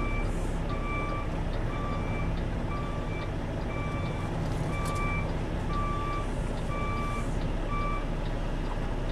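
Semi truck's reversing alarm beeping at a steady pace, about once every three-quarters of a second, and stopping about 8 seconds in. A truck engine rumbles underneath.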